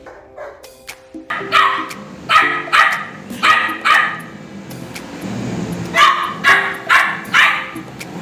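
A dog barking in two runs of sharp barks: about five, a pause of a couple of seconds, then four more.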